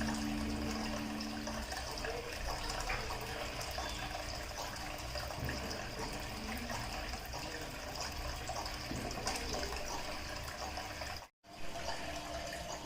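Water of a small homemade garden waterfall fountain falling and splashing steadily, broken by a brief cut to silence near the end.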